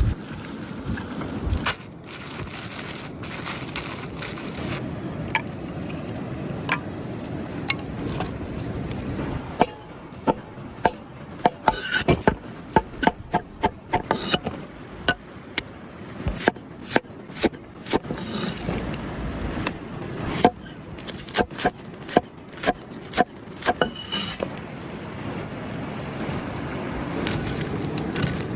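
Kitchen work with utensils: scraping and rubbing, then a run of sharp, irregular knocks, several a second, for about fourteen seconds, then scraping again.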